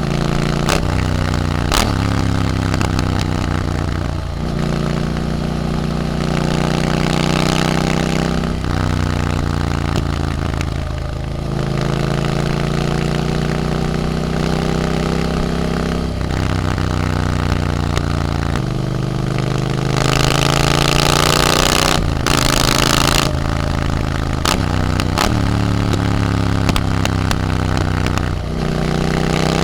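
Triumph Scrambler 900's parallel-twin engine through an Arrow exhaust, riding and pulling through the gears: the engine note climbs, then drops at each gear change, again and again. About two-thirds of the way in a rushing noise swells for a few seconds.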